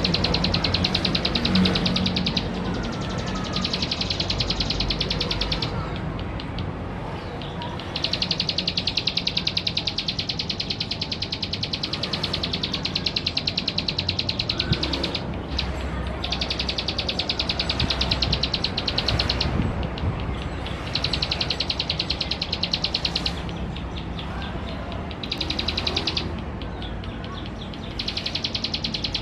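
Male ciblek sawah singing: long, rapid, buzzy trills, each a few seconds long, repeated with short pauses between them.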